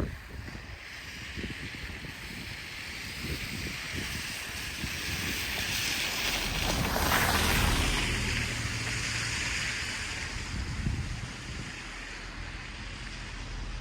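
A vehicle driving past on a slushy, snow-covered street: a hiss of tyres on the wet road that swells to its loudest about halfway through and then fades, with a low engine hum after it passes.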